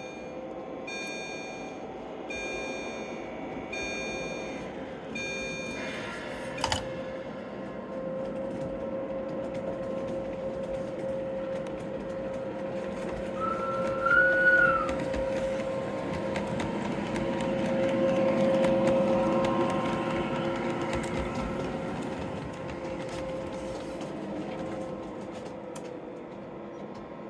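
LGB G-scale model trains running on the track, a steady rolling hum with a constant drone throughout. A repeated beeping tone sounds over the first few seconds, a short whistle-like tone comes about halfway through, and the running noise swells and fades again about two-thirds of the way through.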